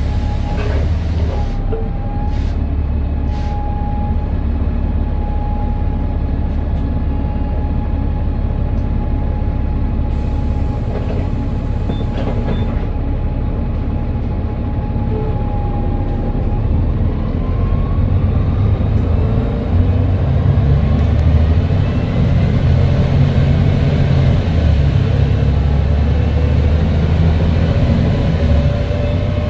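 Volvo B7TL bus's diesel engine running with a slight turbo whistle: a steady high whistle over a low drone for about the first half. Then the engine note and a whine climb in pitch and grow louder as the bus accelerates.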